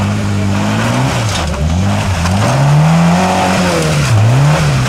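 Suzuki Samurai 4x4's engine revving up and down as it crawls over concrete pipes: the revs dip about a second in, climb to a peak around three seconds, fall back and pick up again near the end.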